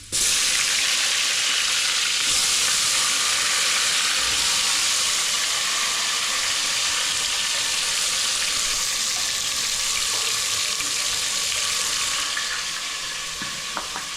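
Tomato going into hot oil in a cooking pan: a loud sizzle that starts suddenly and keeps frying steadily, easing a little near the end.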